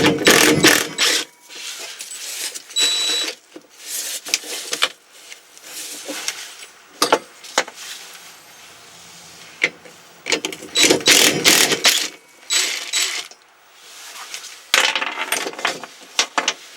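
Metal hand tools clicking and clinking in several bursts as a 13 mm wrench is worked on the brake pedal mounting bracket bolts to take them out.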